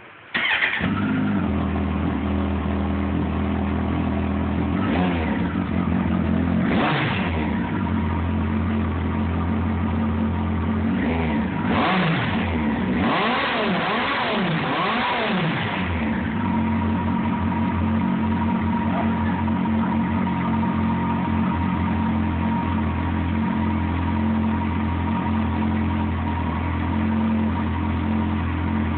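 Kawasaki Concours 14 inline-four motorcycle engine with a LeoVince SBK carbon-fibre aftermarket muffler, starting right at the outset and catching at once. It is blipped up and down several times in the first half, then settles into a steady idle.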